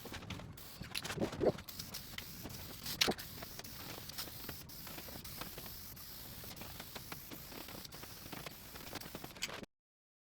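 Helmsman polyurethane being sprayed from an aerosol can onto a tabletop as a first coat: a steady spray hiss with scattered clicks and light knocks. It cuts off suddenly near the end.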